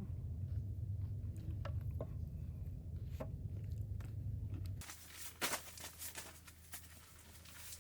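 Crunchy bites and chewing of pizza crust over a steady low hum. The hum stops suddenly about five seconds in, and scattered clicks and rustles follow.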